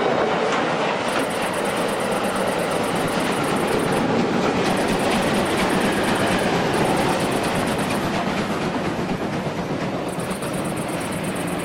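A train running past on the rails, steady throughout and easing off slightly near the end.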